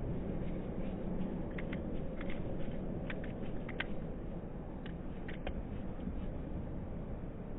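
Short, sharp bird chips scattered over a few seconds, some in quick pairs, over a steady low background rumble.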